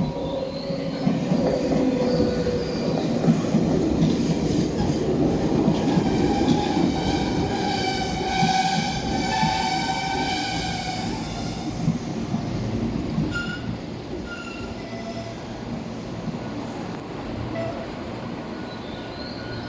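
Tobu limited express train running past along the station platform, a loud rumble with a high squeal of several tones for a few seconds about halfway, the sound easing off toward the end.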